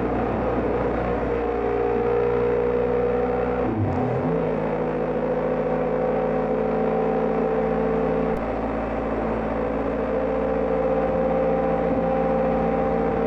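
BMW GS Adventure motorcycle engine running steadily at road speed. About four seconds in its note briefly drops and then settles again, like a gear change.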